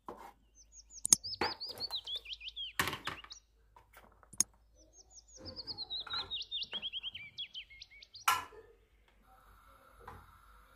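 A songbird singing twice, each time a run of quick chirps that steps down in pitch over about two and a half seconds. Among them come sharp knocks and clinks from kitchen utensils: a knife chopping on a wooden cutting board and a metal spoon against a frying pan.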